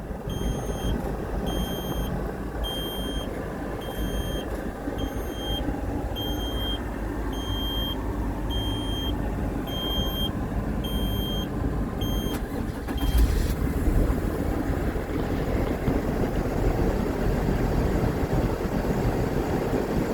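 Diesel truck engine running with a rumble while an electronic warning beep repeats about one and a half times a second; the beeping stops about two-thirds of the way in, and the engine then gets louder.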